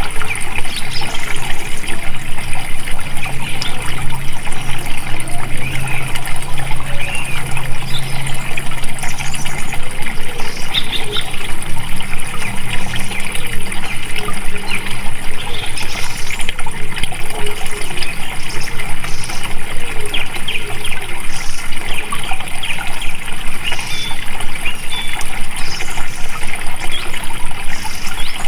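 Flowing water, a stream running and splashing steadily.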